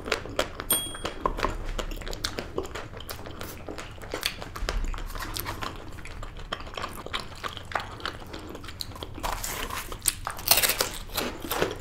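Close-miked biting and chewing of chocolate-coated treats: a dense run of crisp crunchy clicks and mouth sounds, with a louder burst of crunching near the end. It is played back at 1.5× speed.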